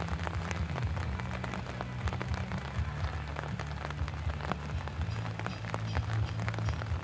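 Rain falling, with many separate drops ticking sharply at irregular moments over a low steady rumble.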